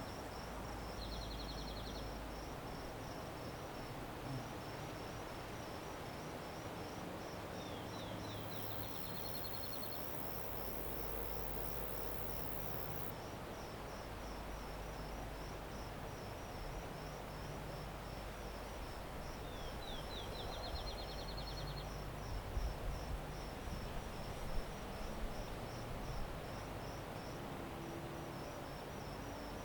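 Crickets chirping in a steady, even rhythm of a few high chirps a second. A short rising-then-level trill, likely a bird, cuts in three times over a low background rumble.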